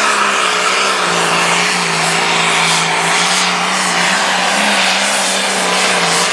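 Limited pro stock pulling tractor's turbocharged diesel engine running hard under full load down the track, with a loud turbo hiss over the engine note. The pitch holds steady, dipping slightly about a second in.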